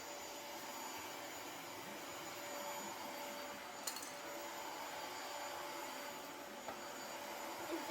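A vacuum cleaner running steadily, with one brief click about four seconds in.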